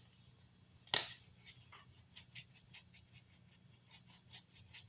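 A shaker of all-purpose seasoning is flipped open with a sharp click about a second in, then shaken in quick light strokes, about four or five a second.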